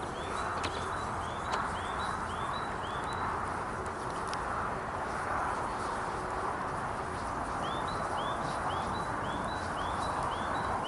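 A small songbird singing a run of short, curved high notes, about two and a half a second, for about three seconds near the start and again near the end, over a steady background hiss with a few faint clicks.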